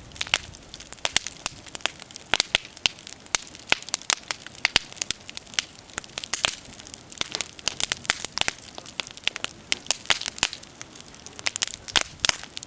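Wood fire burning, crackling and popping with many sharp, irregular snaps over a steady hiss.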